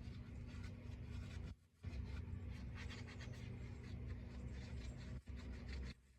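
Household cleaning sounds: scratchy scrubbing and rubbing over a steady low hum, broken twice by brief silences.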